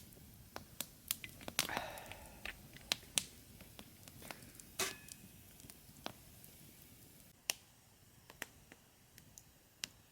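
Wood campfire crackling: irregular sharp pops and snaps over a low hiss, with a denser cluster of crackles about two seconds in.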